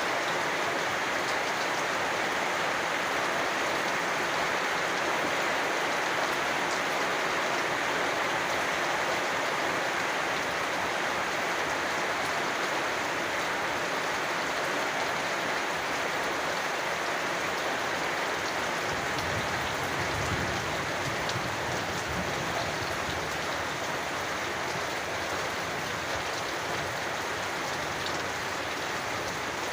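Steady rain falling, an even hiss of many drops without a break. About two-thirds of the way in a low rumble joins underneath.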